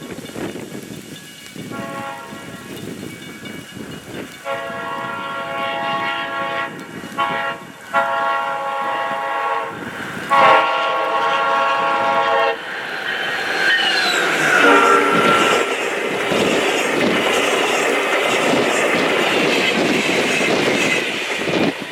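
A passenger train's horn sounds several long blasts as the train approaches at speed. The horn's pitch drops as the locomotive passes, then the cars rush by with a steady roar of wheels on rail.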